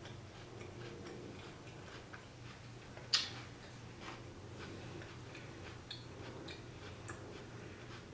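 Close-miked chewing of crunchy raw jicama fries: a run of faint, crisp clicks through the whole stretch, with one much sharper, louder click about three seconds in.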